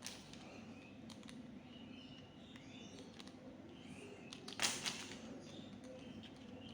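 Faint background with a steady low hum and a few short, high chirps, broken by a brief loud noise about two-thirds of the way through.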